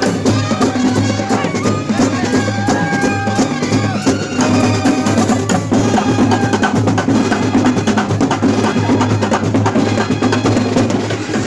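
Loud percussion music: fast, dense drumming with a high melody line playing over it.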